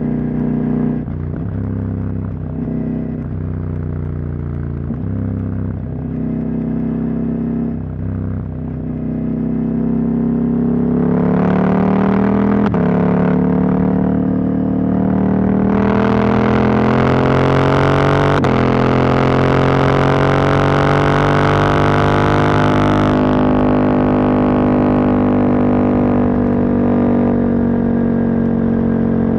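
Husqvarna Norden 901's parallel-twin engine, run without its catalytic converter, pulling on the road. For the first several seconds the revs go up and down in short steps. Then the engine accelerates, the revs climbing and dropping sharply twice as it is shifted up, before it settles into a steady cruise.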